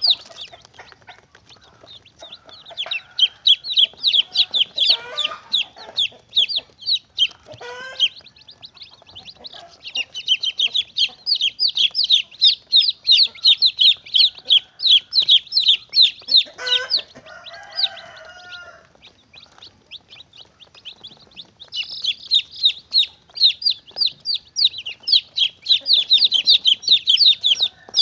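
Domestic chicks peeping: rapid runs of short, high-pitched, falling peeps, several a second, broken by a few gaps. A few lower clucks from an adult hen come in between.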